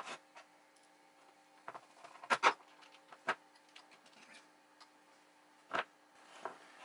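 Plastic parts of an electronic drum pad being handled and fitted back together: scattered clicks and knocks, the loudest at the very start, a close pair about two and a half seconds in, and another near six seconds, over a faint steady hum.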